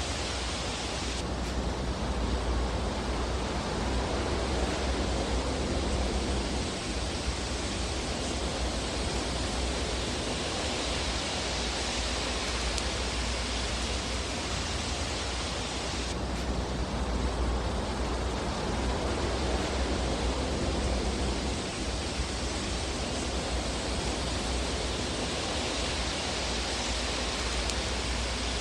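Looped fireplace fire ambience: a steady, even rushing hiss with hardly any distinct crackles. The upper hiss shifts abruptly about a second in and again some 15 seconds later, where the recording loops.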